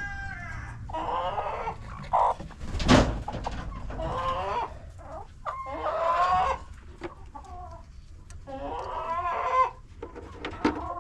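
Chickens clucking and squawking with repeated calls, and a loud sharp squawk about three seconds in. The hens are protesting at being disturbed while eggs are taken from the nests.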